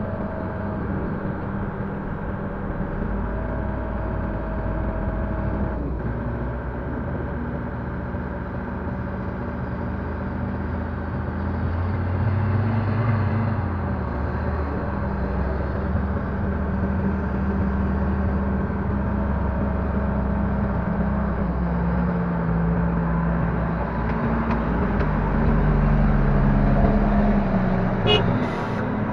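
Link-Belt 145X3E hydraulic excavator's diesel engine running under working load, its pitch and loudness rising and falling as the hydraulics dig and swing, loudest near the end.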